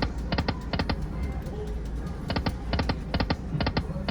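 Slot machine sound effects: a run of sharp electronic ticks about two or three a second, pausing briefly in the middle and then starting again, over casino background hum.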